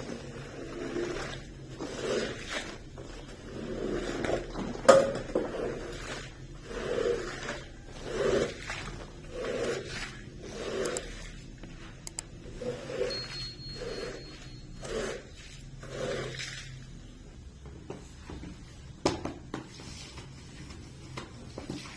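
Slow, regular scraping strokes over a carpet, roughly one a second, which stop about three-quarters of the way through. A sharp knock about five seconds in is the loudest sound, and there is another click near the end.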